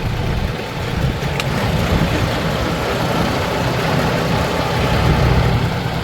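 Tractor diesel engine running steadily at low speed.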